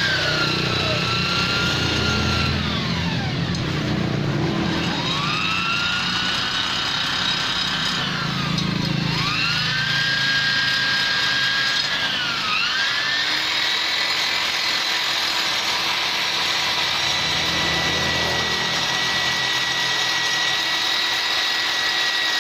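High-speed rotary tool with a carbide burr (tuner bit) grinding metal while porting a Vespa engine. Its whine drops in pitch several times as the burr bites into the metal and climbs back, then runs free at a steady pitch for the last several seconds.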